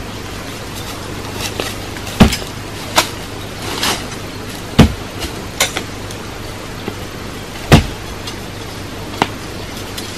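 Sharp, heavy knocks of a tool striking wood, a few seconds apart, with lighter knocks and clicks between them.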